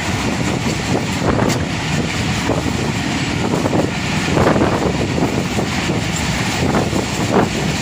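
Passenger train running at speed, heard from an open coach window: a steady rumble of wheels on the rails with wind buffeting the microphone and irregular knocks from the running gear.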